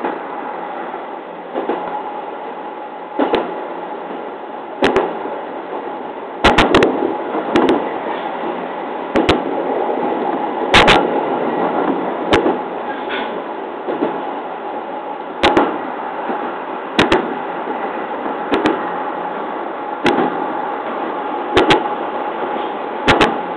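JR East 209 series electric train running along jointed track, heard from the front of the car: a steady running noise with a sharp clack about every one and a half seconds, some coming in quick groups, as the wheels pass over rail joints.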